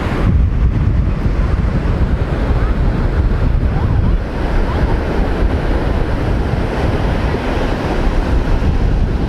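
Strong wind buffeting the microphone over rough surf breaking on a sandy beach: a steady, gusting rumble with the wash of the waves.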